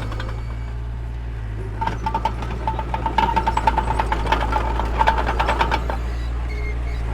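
Mini bulldozer's diesel engine running steadily under load, with a quick run of clanks and squeaks from its tracks from about two seconds in until about six seconds.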